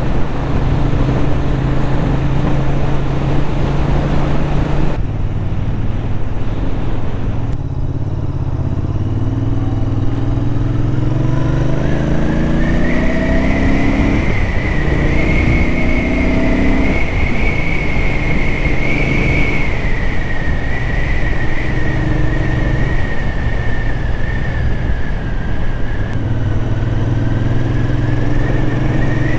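Royal Enfield Interceptor 650's parallel-twin engine heard from the saddle over wind rush. It runs steadily, then from about a third of the way in accelerates up through several gears, its pitch rising and dropping back at each shift, before settling into a steady cruise with a high, steady whine above it.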